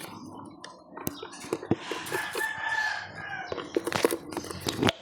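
A bird's drawn-out call lasting about a second, starting about two seconds in, among several sharp clicks and taps.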